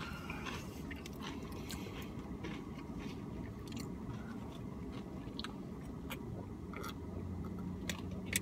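A mouth chewing Tostitos tortilla chips with dip, with many short crisp crunches scattered throughout, over a low steady hum.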